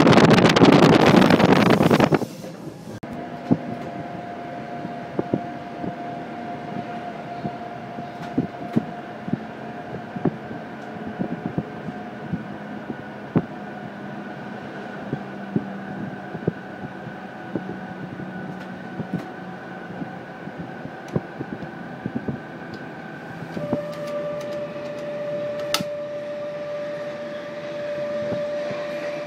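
Loud rushing noise for about two seconds, cutting off suddenly. Then the quieter interior sound of a moving train, with a steady whine and frequent irregular clicks of wheels over rail joints. The whine steps down in pitch near the end.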